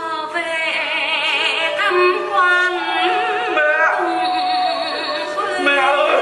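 A woman singing long, sustained notes with a wide, regular vibrato, over music; a steady held instrumental note joins about three seconds in.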